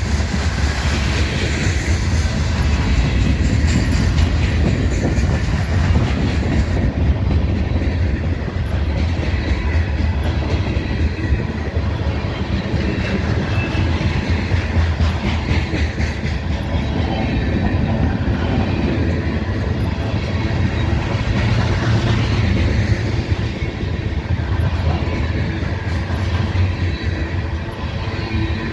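Long freight train's cars rolling past close by: a steady rumble of steel wheels on the rails, with no let-up.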